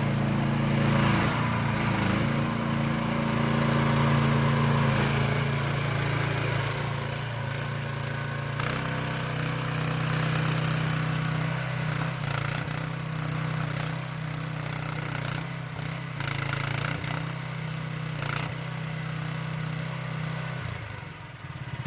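Small engine of a 2023 AGROTK H15 mini excavator running steadily. Its note shifts about nine seconds in and dips briefly near the end.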